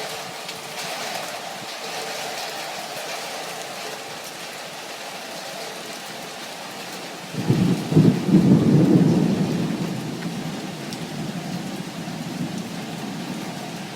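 Heavy rain falling steadily. About halfway through, a loud clap of thunder breaks in and rumbles for a few seconds before fading back into the rain.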